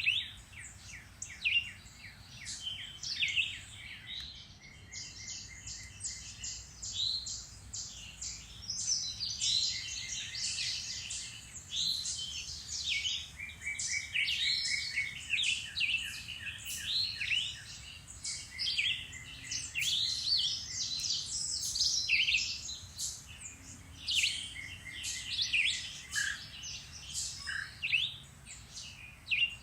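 Several songbirds singing and calling at once in woodland: a busy mix of chirps, whistled phrases and short rapid trills that overlap throughout.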